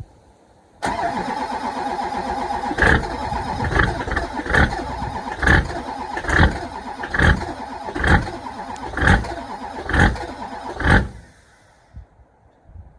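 LB7 Duramax 6.6-litre V8 turbodiesel being cranked by its starter in deep cold after two weeks unplugged. The starter whirs steadily with a heavy thump about once a second, about ten in all, and the cranking stops after some ten seconds without the engine catching.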